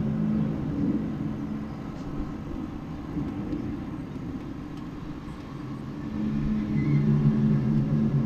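A low, steady droning hum made of several held tones, heard outdoors from an unidentified source the recordist calls a strange noise from the sky. It fades somewhat in the middle and swells back about six seconds in.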